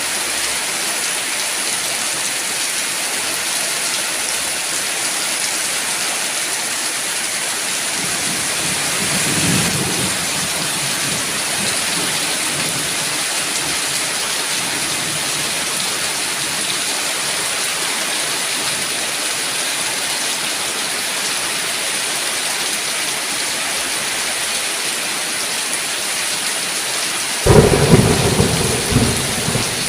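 Steady heavy rain, with a low roll of distant thunder about a third of the way in. Near the end a sudden loud thunderclap breaks in and rumbles on for a couple of seconds.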